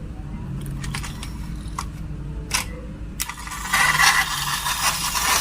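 Marbles clicking and rattling down a marble-run track: a few separate clicks, then from near the middle a dense, loud clatter of many marbles, over a steady low hum.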